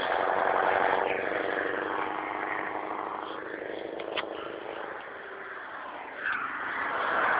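Scania 143 450 truck's 14-litre V8 diesel running, loud at first and easing off over several seconds, then building again about six seconds in.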